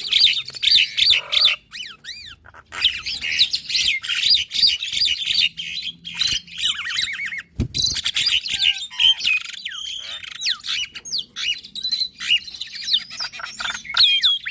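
Javan myna and black-winged myna singing together in a dense, rapid stream of chattering notes, squawks and whistled glides, with a short lull about two seconds in. A single dull knock sounds about seven and a half seconds in.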